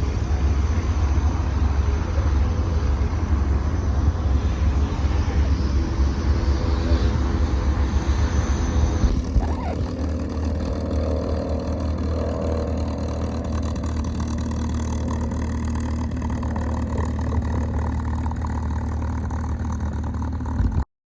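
Engine running steadily, a loud low drone, with an abrupt change in its sound about nine seconds in.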